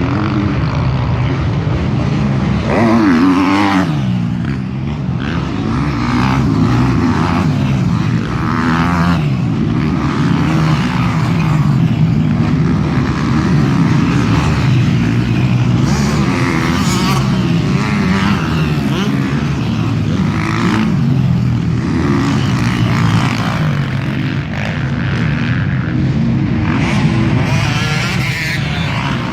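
A field of motocross motorcycles racing, with a steady engine drone and individual bikes revving up and easing off again and again.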